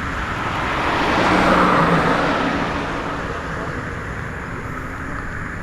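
A road vehicle passing by, its noise swelling to a peak about two seconds in and then fading.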